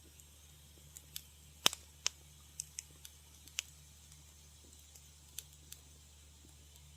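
Wood fire crackling in a fireplace: scattered sharp pops and snaps, the loudest a little under two seconds in, over a steady low hum.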